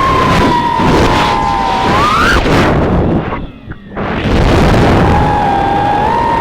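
3-inch FPV quadcopter's brushless motors and propellers whining, with a rough rushing noise underneath. The pitch swells up sharply about two seconds in, then the sound cuts out for about a second as the throttle is chopped. It comes back at a slightly lower pitch and climbs to a steady whine.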